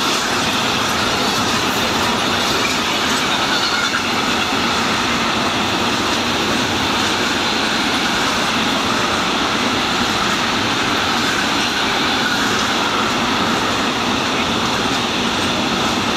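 Intermodal freight train's container and trailer wagons rolling past on the track, a loud, steady noise of wheels on rail.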